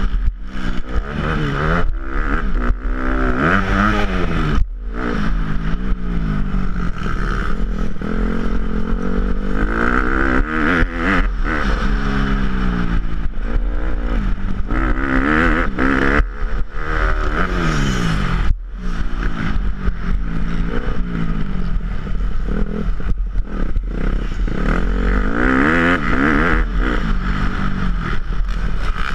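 Motocross dirt bike engine revving hard and easing off over and over, its pitch climbing and falling with throttle and gear changes, with brief sudden cuts about five seconds in and again near twenty seconds. A rattling clatter and a constant low rumble run underneath.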